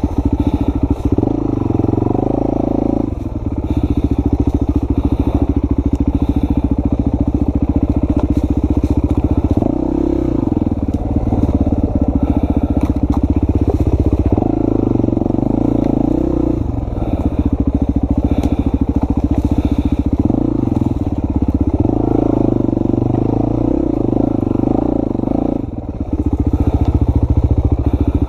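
Dirt bike engine running on a trail ride, rising and falling with the throttle several times, briefly dropping away near the end before picking up again.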